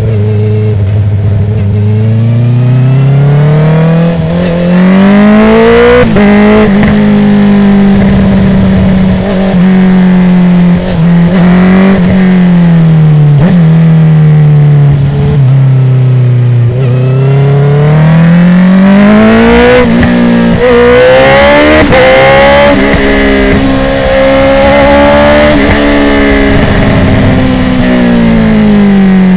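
2019 Honda CB650R's inline-four running through an Akrapovic full titanium exhaust with the dB killer removed. Engine speed climbs, holds, eases back down, climbs again and drops off a little near the end.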